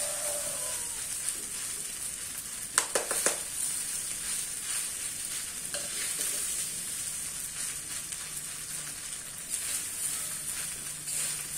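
Nasi goreng (fried rice) sizzling in a metal pan while being stirred and scraped with a metal spoon. A steady hiss runs throughout, with a few sharp clatters of the spoon against the pan about three seconds in.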